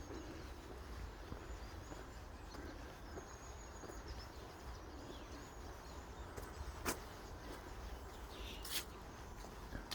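Quiet reedbed-and-woodland ambience with faint, short high bird calls in the distance and two sharp clicks about seven and nine seconds in.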